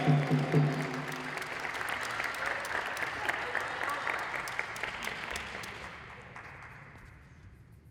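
Arena audience applauding and fading away over several seconds, with the tail of arena music ending about a second in.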